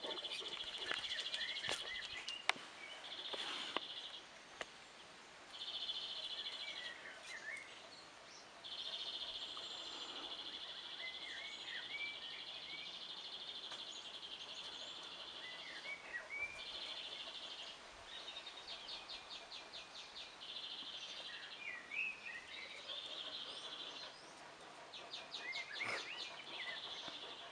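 Birds calling outdoors: a high buzzing trill that starts and stops in stretches of a few seconds, with short chirps between and, twice, a rapid pulsing call.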